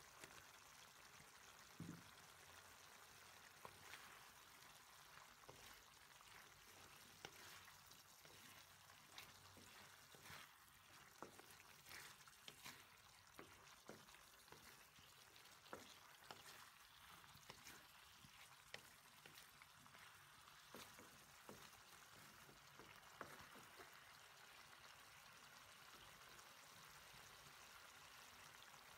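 Pork and carrot pieces sizzling faintly in teriyaki sauce in a wok: a steady soft hiss with scattered ticks and scrapes as a wooden spatula stirs them, the ticks thickest through the middle stretch.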